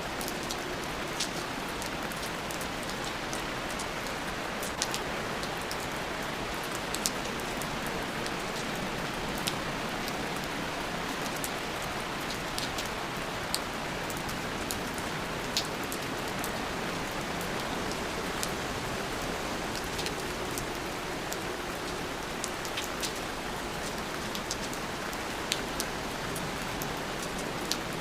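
Steady rain falling, with scattered sharp drops ticking close by at irregular moments.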